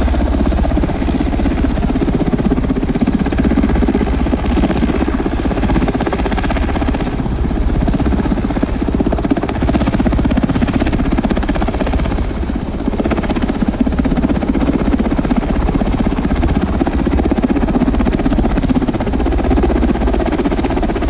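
Helicopter flying, its rotor and engine noise loud and steady throughout.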